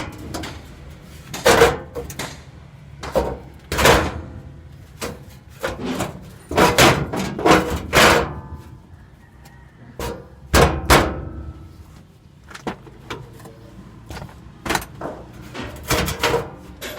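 Irregular metallic clanks and knocks as tools and heavy metal parts strike each other during work on a truck transmission, some strikes ringing briefly.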